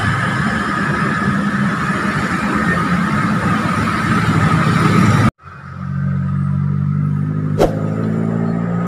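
Steady motor vehicle engine and traffic noise with a low hum. About five seconds in, the sound cuts off abruptly, then a steadier low engine hum resumes with a single click.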